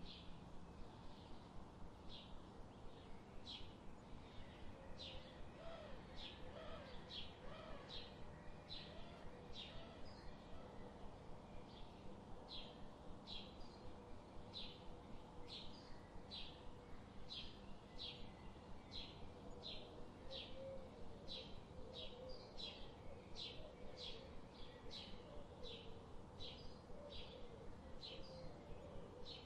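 Forest birds chirping: a run of short, high chirps repeated about one to two times a second, with faint lower warbling calls in the background.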